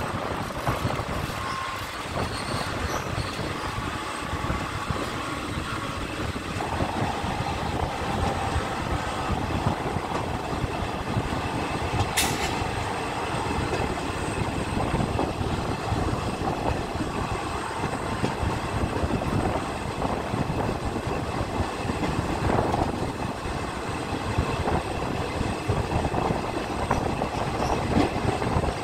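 Indian Railways passenger train running along the track, heard from an open coach door: a steady rumble of wheels on rails mixed with wind rush, a faint steady whine that comes in about a quarter of the way through, and one sharp metallic click about twelve seconds in.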